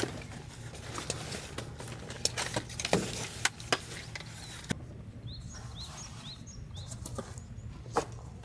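A bird gives a quick run of about six short high chirps, starting about five seconds in, over scattered clicks and taps.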